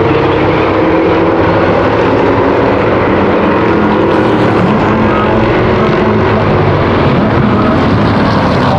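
A field of V8 stock cars and trucks racing around an oval, several engines running at once with overlapping pitches in a steady, loud drone.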